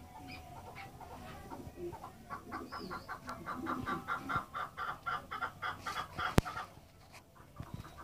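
Birds calling in a fast run of repeated short notes, about eight a second, growing louder from about two seconds in, with a single sharp click near six and a half seconds.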